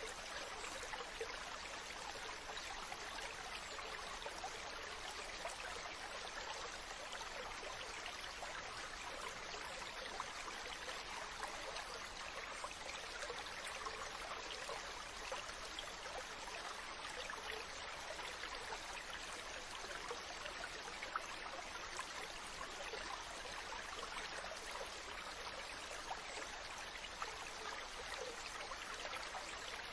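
Ocean ambience: a steady, even wash of water noise without distinct rising and falling waves or bird calls.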